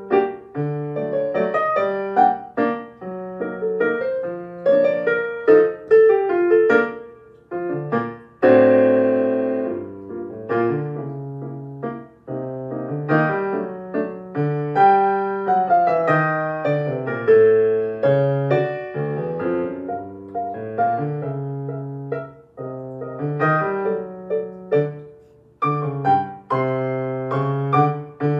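Solo piano playing a piece in three-beat time: melody notes and chords over bass notes, with a loud full chord struck about eight and a half seconds in.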